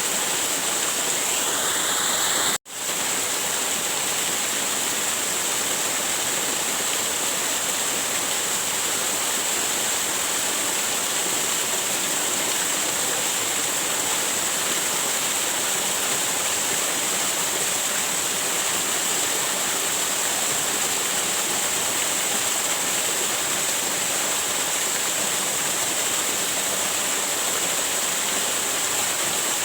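Waterfall: a steady rush of falling water. The sound cuts out for an instant about two and a half seconds in, then carries on unchanged.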